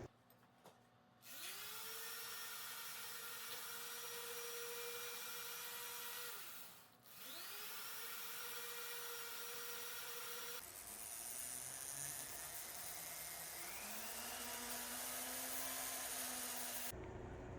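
Small electric power tool motor spinning up with a rising whine and running steadily, switched off and on three times; the last run is at a lower pitch.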